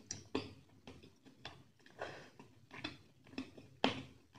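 Close-miked open-mouth chewing of a handful of rice and spicy chicken curry: wet smacking and crackling mouth clicks, roughly two a second, the loudest a little before the end.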